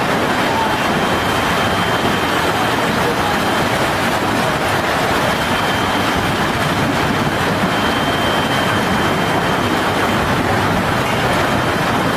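Steady, loud roar of a violent storm, wind and heavy rain together with no let-up.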